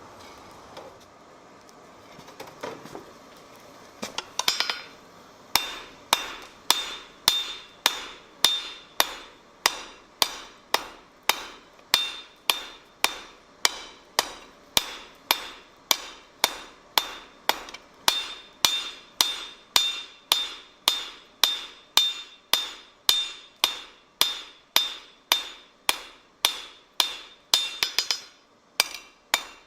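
A blacksmith's hammer striking metal on an anvil in a steady rhythm of about two blows a second, each blow ringing. It starts about five seconds in after a few scattered knocks, and pauses briefly near the end.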